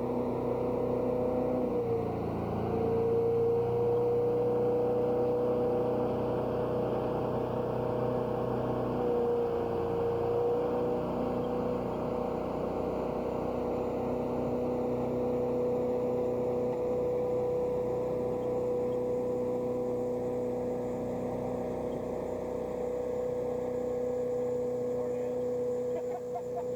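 Motorboat engine running steadily at speed while towing a rider. Its pitch dips briefly about two seconds in and again around ten seconds, over the rush of wind and water.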